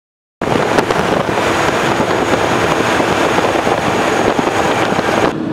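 Loud wind rush and road noise on a moving motorcycle, with the wind blasting across the microphone. It starts abruptly about half a second in and cuts off suddenly just before the end.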